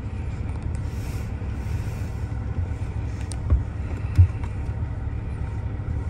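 Ferrari LaFerrari's V12 engine idling steadily, heard from inside the cabin as a low rumble, with two brief low thumps at about three and a half and four seconds in.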